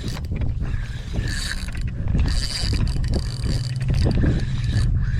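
Penn Battle III 4000 spinning reel being cranked, its gears whirring in stretches with a steady high tone, over a steady low hum.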